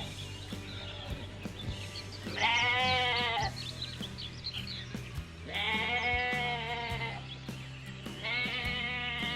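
Three long bleats, each about a second, with a slightly wavering pitch, over background music. The first comes about two seconds in, the second near the middle, and the third near the end.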